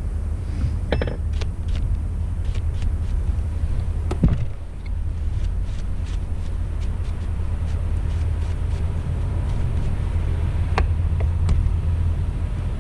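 Scattered light clicks and knocks from handling a Poulan chainsaw's fuel and bar-oil caps, the loudest knock about four seconds in, over a steady low rumble.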